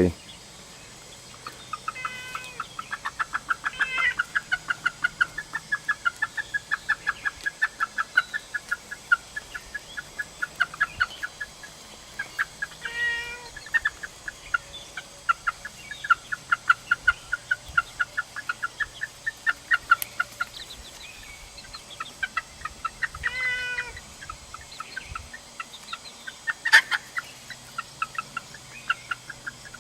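Young Icelandic chickens giving rapid, repeated alarm clucks, several a second, with a few longer drawn-out calls mixed in: a warning call at a cat they take for a predator.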